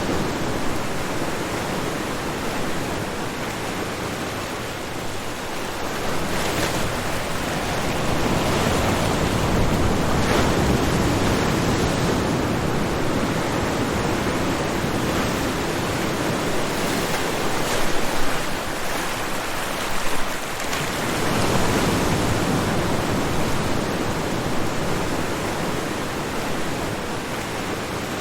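Ocean surf washing onto a shore: a continuous rush of breaking waves that swells and ebbs over several seconds, briefly louder twice about two-thirds of the way through.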